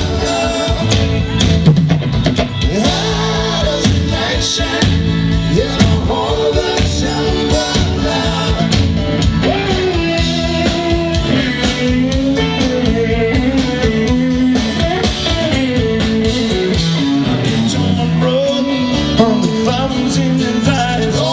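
Live rock band playing an instrumental stretch of the song, with guitar prominent over a steady beat.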